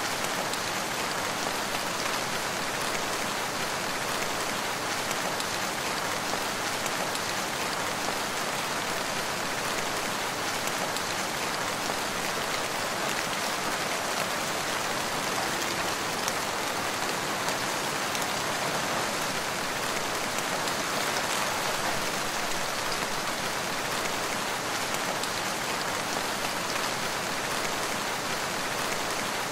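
Steady rain falling in a forest, a constant even hiss of rain with the patter of raindrops on surfaces.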